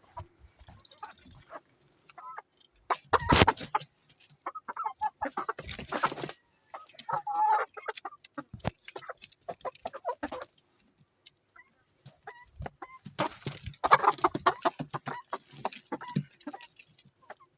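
Short pitched animal calls, between several loud noisy bursts.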